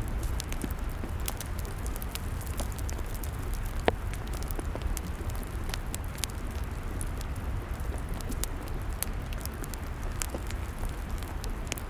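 Log fire crackling: scattered sharp pops and snaps over a steady low rumble, with one louder pop about four seconds in.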